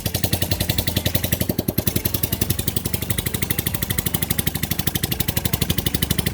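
Boom 150cc Chinese scooter's single-cylinder engine running steadily, with an even, rapid beat of about ten pulses a second.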